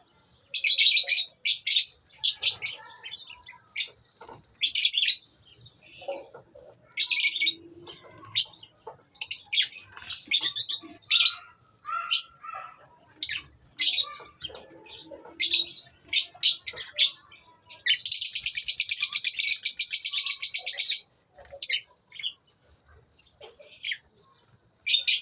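Lovebirds in a colony chirping in short, sharp bursts, with one long, rapid chatter lasting about three seconds about three-quarters of the way through.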